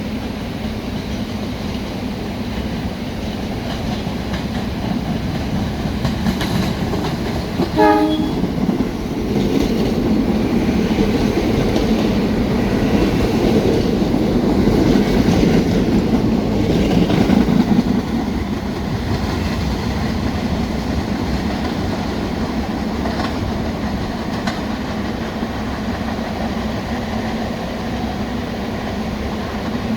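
Staten Island Railway electric train: a short horn blast about eight seconds in, then the rumble and wheel noise of the train on the rails, loudest from about nine to eighteen seconds before easing to a steadier, quieter running sound.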